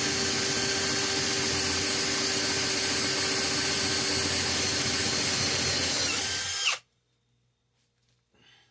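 Electric drill boring a hole through a metal bus bar, running steadily under load, then cut off suddenly about six and a half seconds in.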